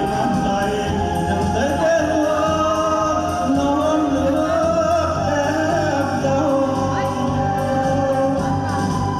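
Singing over instrumental accompaniment that holds low sustained notes.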